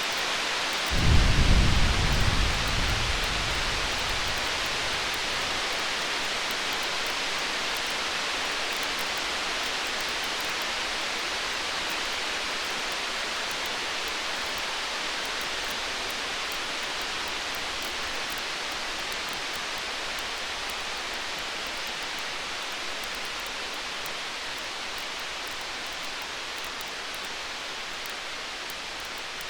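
A roll of distant thunder about a second in, a low rumble that peaks briefly and fades away over several seconds. Underneath is a steady hiss with faint crackling from a campfire.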